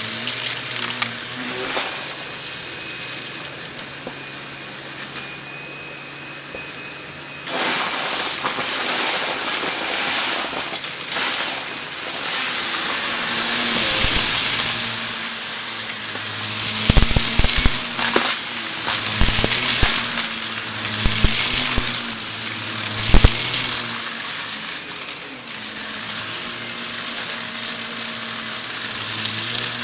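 Vacuum cleaner running while it sucks up crunchy dry debris, which crackles and rattles up through the machine. The sound drops quieter for a few seconds, then jumps back to full loudness about seven seconds in. Crisp clicks and crunches come thickest in the middle stretch.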